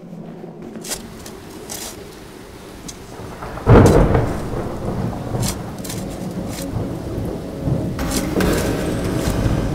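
Thunderstorm: steady rain with a sudden loud clap of thunder a few seconds in that rolls on as a rumble under the rain.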